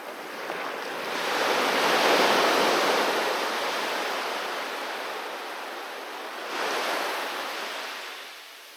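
Sea waves breaking on a beach: one wave swells to its loudest about two seconds in and washes out slowly, then a smaller wave surges near the end and fades.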